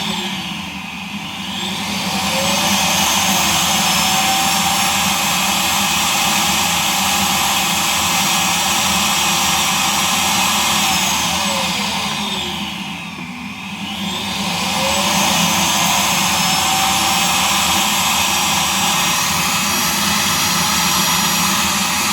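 Vacuum suction motor from a Roomba i3+ setup running loud and steady. Twice, about twelve seconds apart, its pitch sweeps down and back up as the motor slows and speeds up again.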